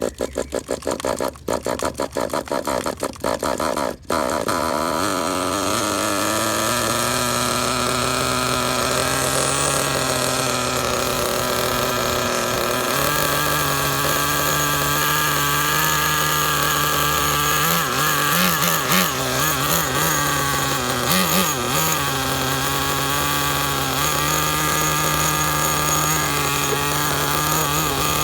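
Small glow-fuel nitro engine of a 1/10-scale RC monster truck starting: a few seconds of stuttering, broken bursts, then it catches about four seconds in and runs steadily. Its pitch steps up about halfway through, and there are a couple of short rises in revs a little later.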